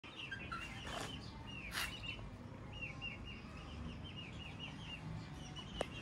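Birds chirping: a long run of short, quick chirps, several a second, with brief rustling noises about one and two seconds in and a sharp click near the end.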